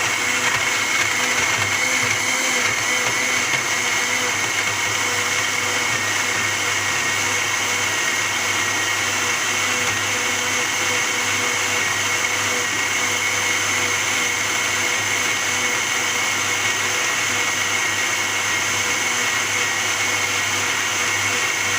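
Electric kitchen blender running steadily, a continuous motor whine, blending chopped garlic, lemon and onion in water and vinegar.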